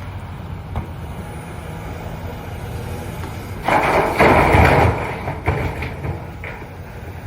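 Excavator engine running steadily, with a loud scraping crunch of broken concrete lasting about a second and a half just past the middle, followed by a few short knocks.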